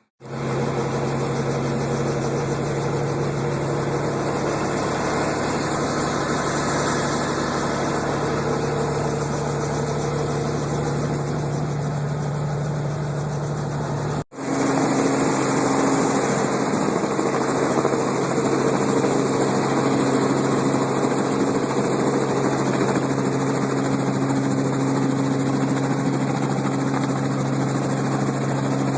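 Four-seat helicopter running steadily, a constant drone of engine and rotor with a low hum over broad rushing noise. About halfway through it cuts out for an instant, then resumes slightly louder.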